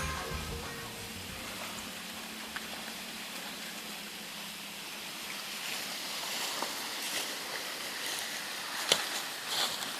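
Steady outdoor hiss, like running water or wind, with a few sharp ticks near the end. Background music fades out in the first two seconds.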